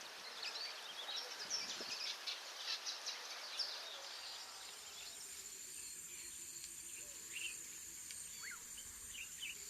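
Many birds chirping and calling at once in short high notes. About four seconds in, the sound changes abruptly to a steady, high-pitched insect buzz with a few scattered bird chirps.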